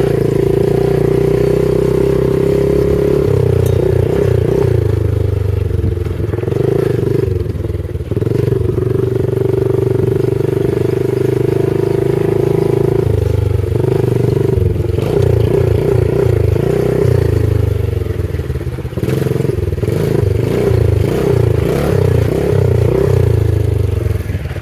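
PitsterPro FSE70 pit bike's 70cc four-stroke engine running, its pitch holding steady for stretches and turning choppy and uneven in others.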